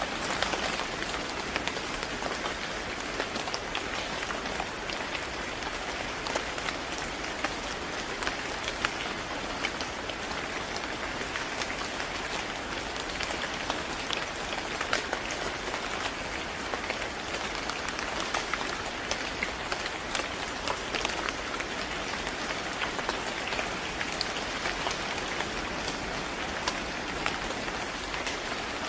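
Steady rain falling on a hard surface, an even hiss dotted with the ticks of single drops.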